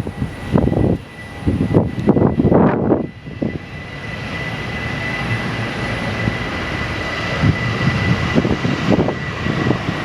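Wind buffeting the microphone in gusts, then an aircraft's engines swelling into a steady whine with one held high note from about four seconds in, as the plane passes.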